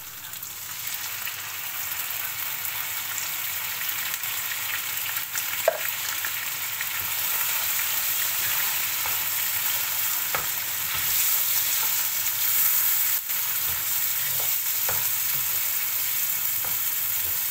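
Chunks of beef for a meat stew sizzling steadily in a frying pan as tomato sauce is stirred in with a spatula. A few light knocks and scrapes of the spatula on the pan come through the sizzle.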